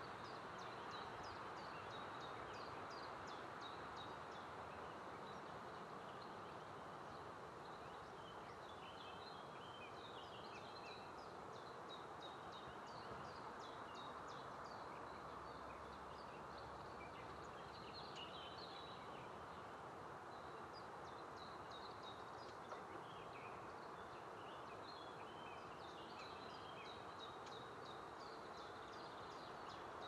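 Faint birdsong: small birds chirping and singing in short, high bursts on and off, over a steady background hiss.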